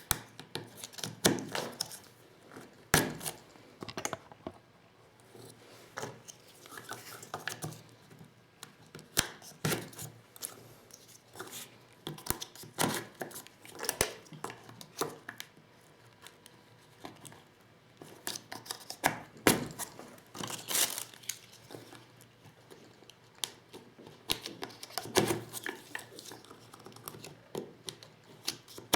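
Hand-reloading 12-gauge shotgun shells with a Lee Loader set: irregular clicks, taps and rustles as shells, wads and the loader's metal tools are handled, with a few sharper knocks scattered through.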